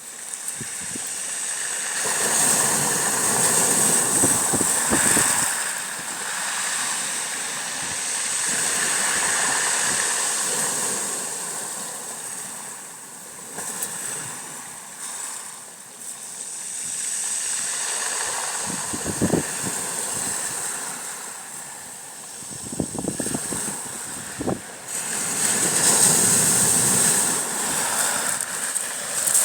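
Waves washing on a bay shore, the rushing water swelling and falling back every several seconds. A few brief knocks come about two-thirds of the way in.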